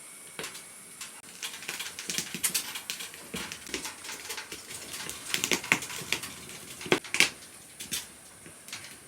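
Irregular light clicks and taps, several sharper ones about five to seven seconds in.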